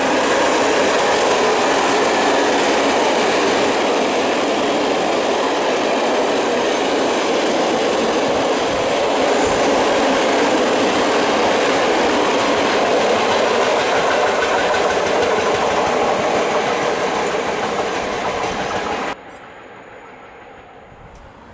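An express passenger train passing at speed: a steady, loud rumble of wheels on the rails with a clickety-clack of the rail joints. It cuts off abruptly near the end to a much quieter background.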